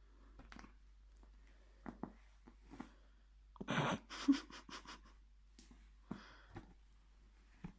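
A cat playing with a piece of string: short scratches and taps of paws and claws, with a louder scuffle about four seconds in followed by a quick run of scrabbling strokes.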